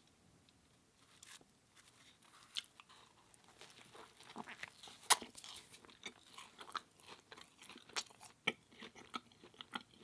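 Close-miked chewing and biting: irregular crunchy, moist mouth sounds that start about a second in, with one sharp crunch about five seconds in.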